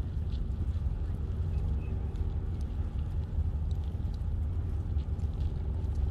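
Wind buffeting the microphone of a camera on a moving bicycle, a constant low rumble, with a steady low hum under it and faint light ticks.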